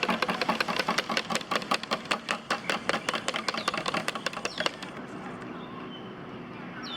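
Quick, irregular hand clapping from a small group of spectators, cutting off abruptly about five seconds in and leaving a quieter steady hiss.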